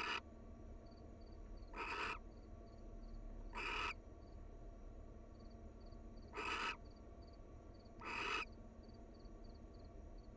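Barn owl giving short, harsh, hissy screeches, five of them, one every two seconds or so.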